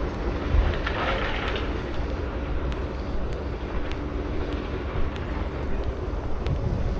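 Wind buffeting the microphone over a faint, steady distant engine hum, with a few light ticks.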